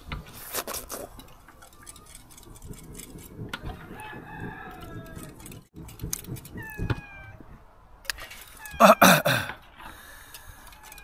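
Chickens clucking and a rooster crowing, with one short loud sound about nine seconds in.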